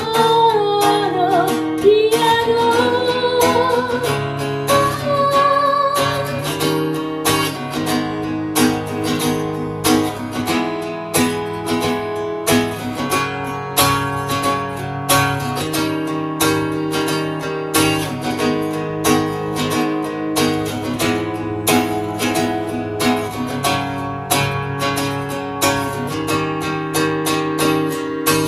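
Live acoustic guitar strummed in a steady rhythm, with a woman singing over it for the first five or six seconds, then the guitar carrying on alone.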